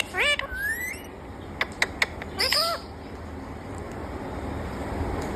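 Pet parrot calling: a short call that rises and falls right at the start, a squeak rising in pitch up to about a second in, and another rising-and-falling call about two and a half seconds in, with three sharp clicks between them.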